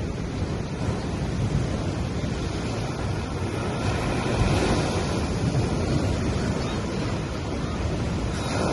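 Small sea waves washing onto a sandy beach, a steady wash that swells about halfway through and again near the end, with wind rumbling on the microphone.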